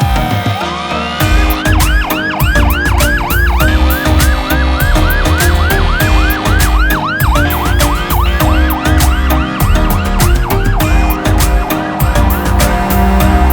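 A rapid yelping siren, its pitch sweeping up and down about three times a second, over music with a heavy, steady beat.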